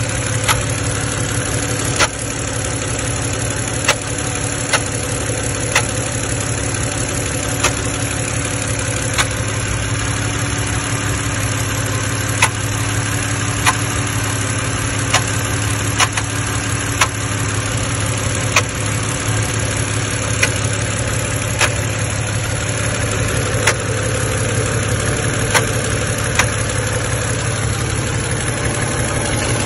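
BMW engine idling steadily, with sharp clicks about once a second at uneven intervals: an engine noise whose source the owner cannot find.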